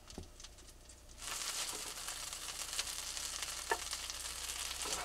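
Leftover mashed potatoes frying in a pan: a sizzle starts suddenly about a second in and carries on steadily, with small crackles and pops through it.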